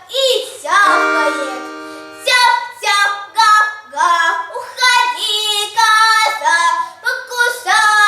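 Children singing a song in short syllables, with one note held and fading away about a second in.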